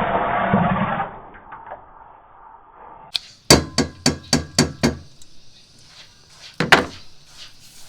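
A loud rushing hiss that stops about a second in, then a quick run of about six sharp clacks, roughly four a second, and one more clack near the end.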